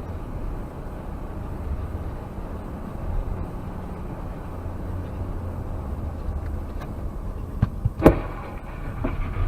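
A car on a winter road: a steady low rumble of engine and tyres, with two sharp knocks close together about eight seconds in.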